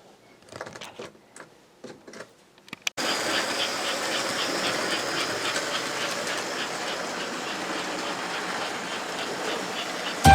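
A few faint clicks, then about three seconds in a sudden cut to a vintage American Flyer S-gauge toy train running on its track: a steady whirring rumble with faint regular clicks, about three a second.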